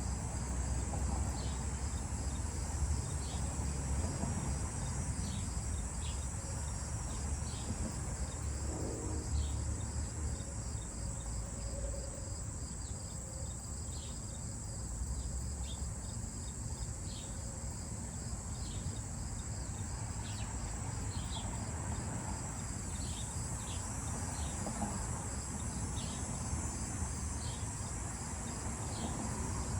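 Crickets and other insects trilling steadily in a high, unbroken chorus, with short high chirps repeating about once a second, over a low rumble.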